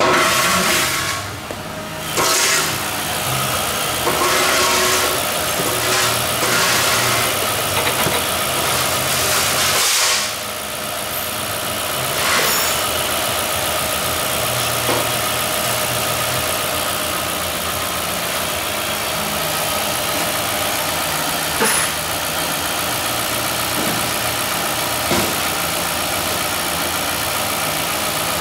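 2001 Lincoln Continental's 4.6-litre DOHC V8 running, louder with several surges during the first ten seconds, then settling to a steady idle. The engine runs well.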